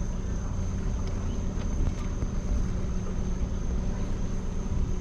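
Motorboat engine running steadily with a constant low drone while the boat cruises.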